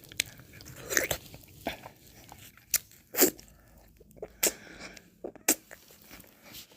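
Mouth sounds of someone eating ice cream: wet licks and lip smacks with sharp clicks, irregularly spaced, the strongest about a second, three seconds and five and a half seconds in.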